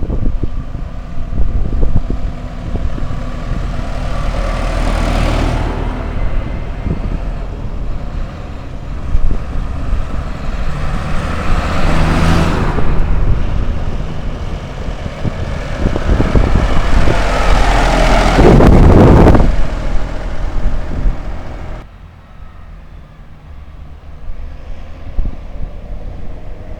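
A motor vehicle's engine running steadily, with wind buffeting the microphone in several gusts. The sound drops off suddenly near the end.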